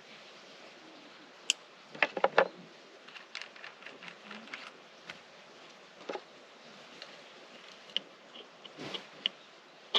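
Scattered light clicks and knocks over faint steady background noise, with a quick cluster of several about two seconds in.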